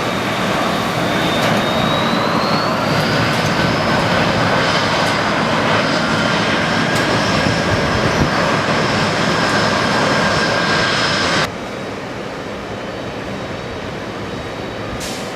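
Jet airliner engines running: a steady loud rush with a high whine that rises slightly about two seconds in. About eleven seconds in it cuts off abruptly to a quieter steady rush.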